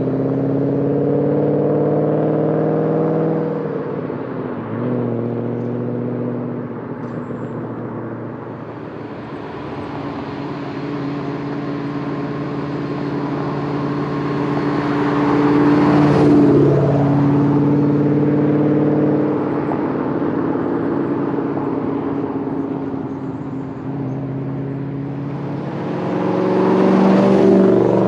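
Modular V8 Mustang with a loud aftermarket exhaust driving past. Its engine note swells and drops in pitch as it goes by, about halfway through and again near the end.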